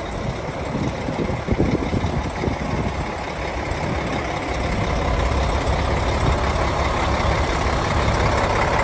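Hyundai tractor truck's 12.3-litre six-cylinder diesel engine running, a steady heavy low rumble that grows slowly louder over the second half.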